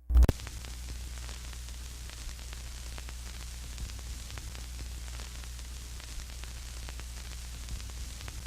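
Steady static hiss over a low electrical hum, with faint scattered crackles and a loud thump just after the start.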